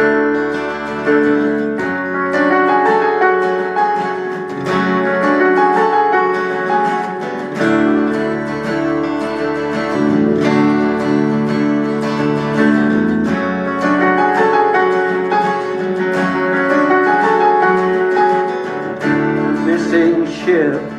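Acoustic guitar playing a song's instrumental intro, sustained chords changing every couple of seconds with picked notes over them.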